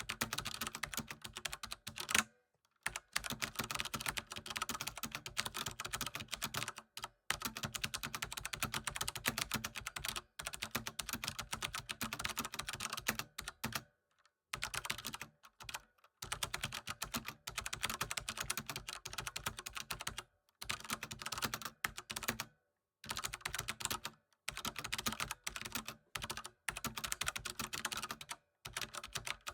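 Typing on a computer keyboard: fast, dense keystroke clicks in runs of a few seconds, broken by short pauses, with a single louder keystroke about two seconds in.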